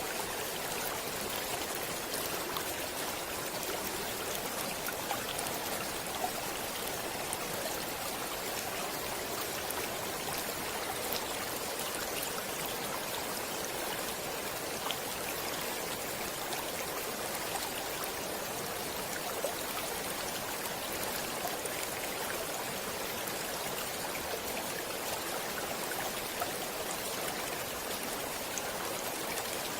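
Stream water flowing steadily, an even rushing sound with occasional small splashes.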